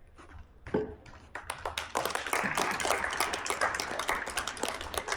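A soccer ball kicked with a sharp thud just under a second in, then a long, dense clatter of quick taps.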